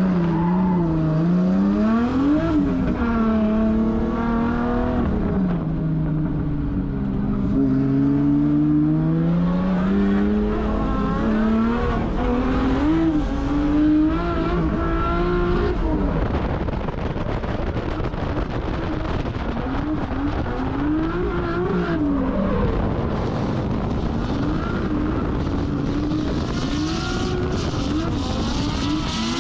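Drift car's 1.5JZ straight-six engine revving hard and rising and falling in pitch over and over as it is worked through a drift run, with tyre noise underneath.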